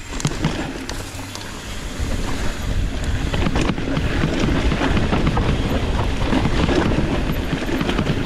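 Wind buffeting the microphone of a mountain bike descending a dirt trail at speed, a loud, rushing rumble that swells about two seconds in, with a few light clicks and rattles from the bike.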